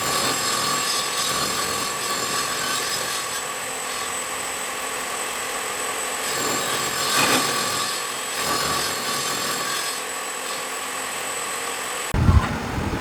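Electric power tool running on wood: a steady motor whine over a rushing noise. About twelve seconds in it gives way abruptly to low knocks.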